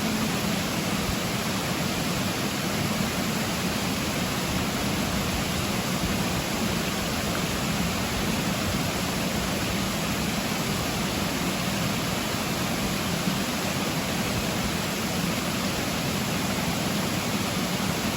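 Steady rushing of running water, like a stream or small waterfall, an even hiss that holds the same level throughout.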